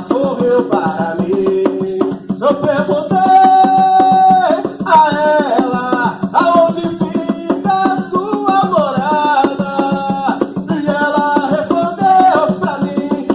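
Ritual chant sung over a steady percussion beat, the voices holding and bending long notes above quick, even strokes.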